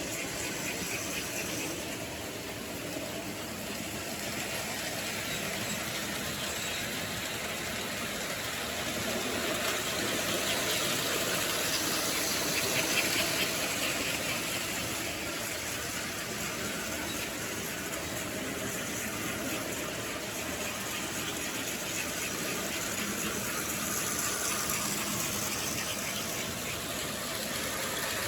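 O scale model train running on its track: a steady whir of motor and wheels that grows louder as it comes near, about ten to fourteen seconds in and again near the end.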